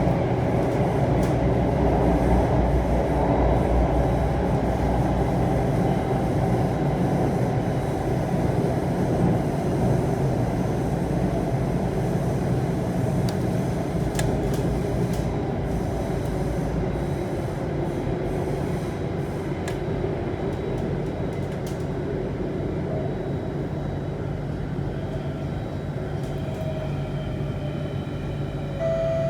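Alstom C830 metro train running through a tunnel, heard from inside the car: a steady rumble of wheels and running gear that slowly grows quieter as the train slows toward the next station. Faint steady tones come in near the end.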